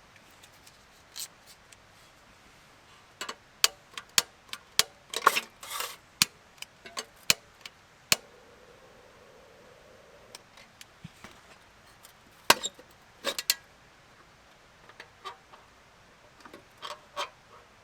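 Irregular sharp knocks and clicks of hard objects being handled and set down, busiest about a third of the way in and again around two-thirds through.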